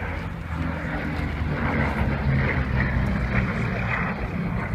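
Aircraft engine running as a display aircraft flies by, slightly louder through the middle.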